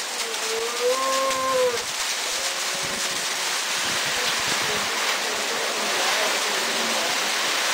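Hailstorm pouring down steadily, with hailstones clicking over the first few seconds. A long, wavering call rises and falls over the first two seconds, with a fainter one about three seconds in.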